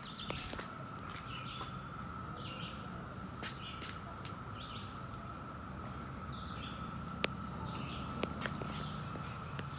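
Birds chirping outdoors, short high calls roughly once a second, over a faint steady hum, with a few sharp clicks.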